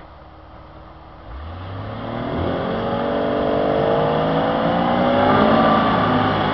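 Jeep's engine revving hard from about a second in, its pitch climbing steadily and then held high near the rev limiter, as the 4x4 spins its wheels stuck in deep snow.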